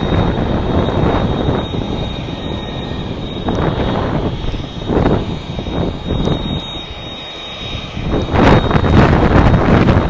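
Airbus A330-300 jet engines at takeoff power, a loud, steady rumble. Gusts of wind buffet the microphone, and the loudest surge comes near the end.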